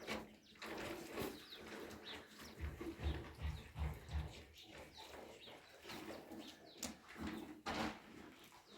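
Animal sounds, birds among them, with scattered short knocks and clicks.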